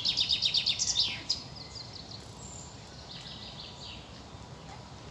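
A songbird singing: a fast, loud series of repeated high chirping notes that ends about a second and a half in, followed by fainter bird calls over a steady outdoor background noise.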